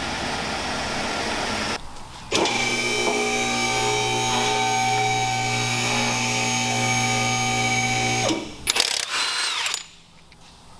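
A power tool's motor runs at one steady pitch for about six seconds, then gives a few short uneven bursts before stopping. A steady hiss fills the first two seconds.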